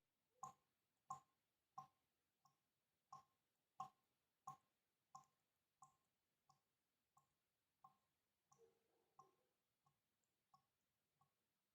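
Water drops falling one at a time at a steady rhythm, about three drips every two seconds, each a short plink. The drips are softer in the second half.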